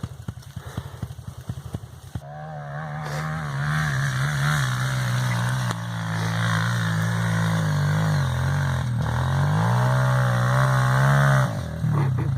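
Trail motorcycle engine idling with a quick even chug, then from about two seconds in revved hard and held at high revs for about nine seconds, its pitch wavering and dipping, before dropping off suddenly near the end: a bike straining to climb a muddy, slippery slope.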